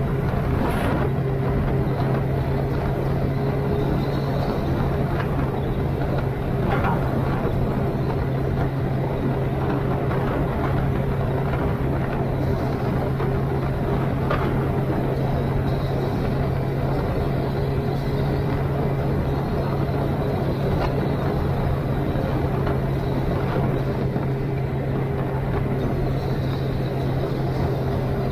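Suzuki GSX-R1000's inline-four engine running at a steady cruising speed, its note held constant without revving, over a steady rush of wind noise.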